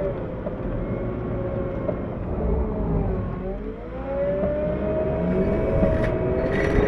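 Compact wheel loader's diesel engine working while pushing snow: the engine note sags about halfway through, then climbs back up. A few sharp clanks near the end.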